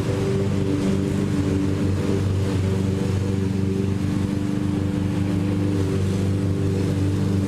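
Petrol lawn mower engine running at a steady speed, a constant mechanical drone.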